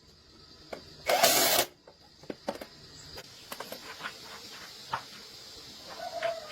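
Workshop work on a motorcycle: a short, loud burst of hiss about a second in, followed by scattered light clicks and taps of tools and parts.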